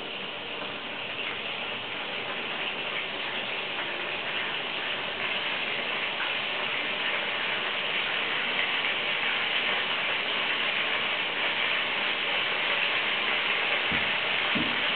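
Food frying in hot oil in a pan, an even sizzle that grows slowly louder, with two light knocks near the end.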